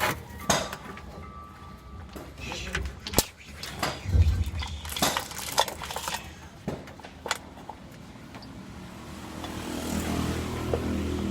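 A string of sharp knocks and clanks, then a vehicle engine running from about nine seconds in, growing louder toward the end.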